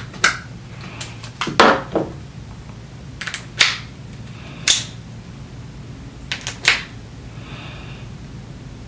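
Roller skate bearings and wheels clicking and knocking as they are handled and pushed together by hand while fitting the bearings into the wheels. There are scattered sharp knocks, some in quick pairs or threes.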